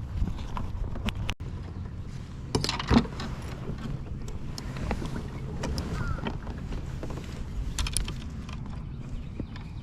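Wind rumbling on the microphone, with scattered light taps and one sharper knock about three seconds in, typical of gear or a fish being handled in a kayak.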